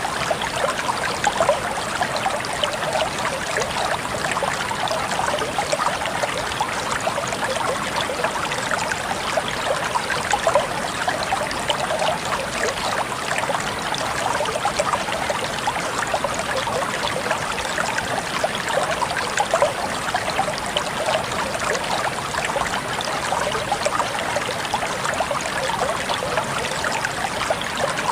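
Flowing stream water running over stones, a steady babbling and trickling.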